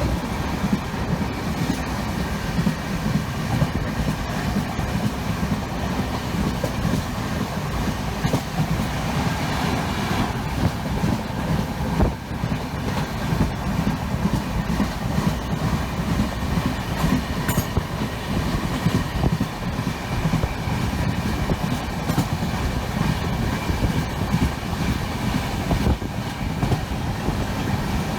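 Passenger train running on the rails: a steady rumble with wheel clatter over the track.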